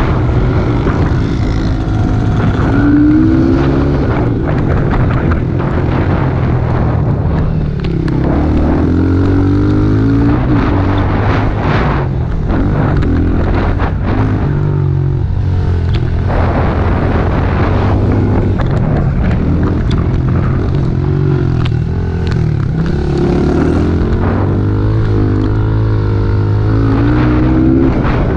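Small single-cylinder four-stroke pit bike engines running and revving, pitch rising and falling again and again as the bikes accelerate and back off.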